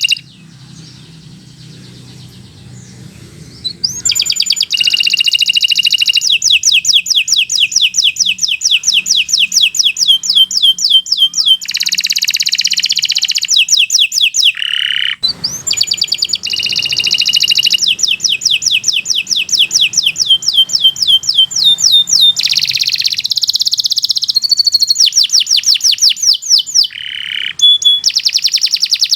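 Domestic canary singing a long song of rapid trills and rolls, phrase after phrase of quickly repeated sweeping notes. The song starts about four seconds in and breaks off briefly near the middle.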